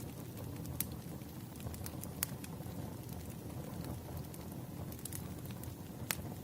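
Campfire burning: a steady low rumble of flames with scattered sharp crackles and pops of burning wood, the loudest pops about two seconds in and near the end.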